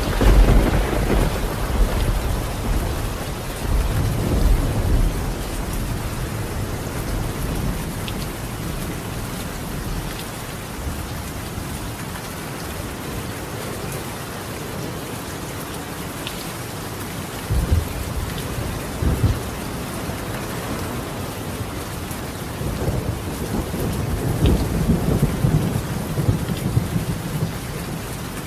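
Steady rain falling on a clay-tiled roof, with thunder: a heavy rumble right at the start that dies away over about five seconds, two sharper claps a little past halfway, and another long rumble near the end.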